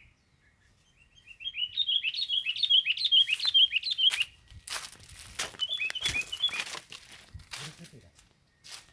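Sooty-headed bulbul (kutilang) chirping: a quick string of short down-slurred notes for about three seconds, then a shorter string a couple of seconds later. Sharp rustling crackles break in between the two strings and again near the end.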